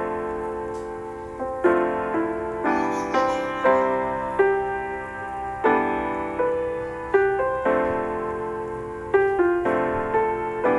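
Background music: slow piano chords, each struck and left to ring.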